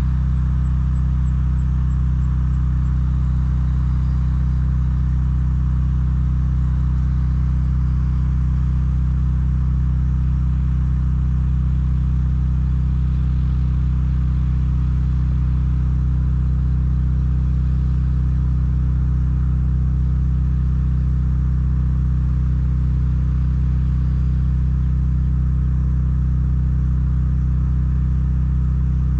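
A motor or engine running at a constant speed: a steady, low, unchanging hum.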